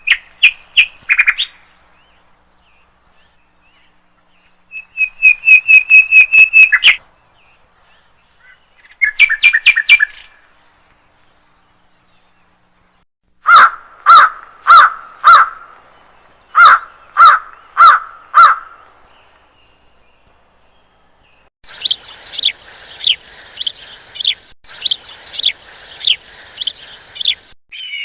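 Bird calls in several separate bouts with silent gaps, each a quick series of repeated whistled notes. First come short rapid trills, then two phrases of four loud, lower, evenly spaced notes, then a run of about a dozen sharp downslurred notes over a steady hiss.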